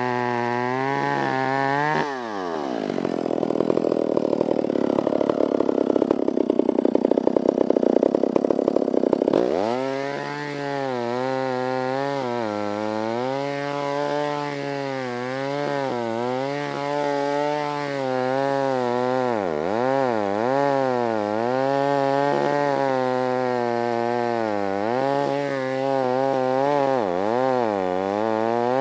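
Stihl 056 two-stroke chainsaw running under throttle in a cut through dead elm, its pitch rising and falling as it works. About two seconds in the engine drops sharply to low revs and runs louder and rougher for several seconds under heavy load. It then revs back up and carries on, wavering.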